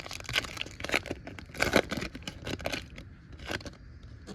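A foil trading-card pack wrapper is torn open and crinkled in a run of irregular crackling rips, loudest a little before two seconds in, then settling to quieter rustling.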